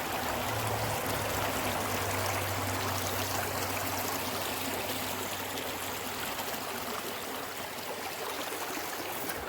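A small creek running steadily over rocks, an even rush of water, with a low rumble underneath for the first several seconds.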